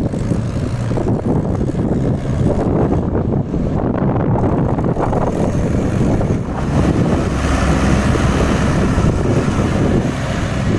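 Diesel tractor engines running under load, with wind buffeting the microphone.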